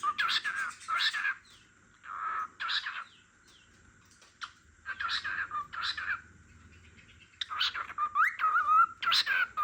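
Cockatiel singing: runs of warbling whistles and chirps that glide up and down in pitch, broken by two short pauses.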